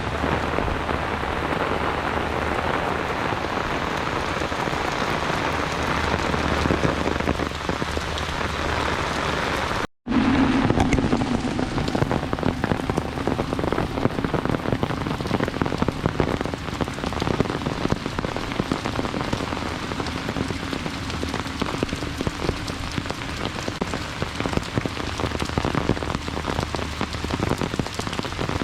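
Heavy rain falling steadily in a dense hiss. About ten seconds in there is a momentary dropout, and after it single drops patter more sharply against the surface.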